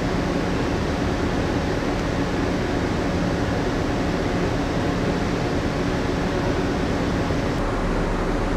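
Steady drone of the moored ship's onboard machinery and air conditioning, heard inside the ship: a low, level hum under a constant rush of air. The lowest hum grows stronger near the end.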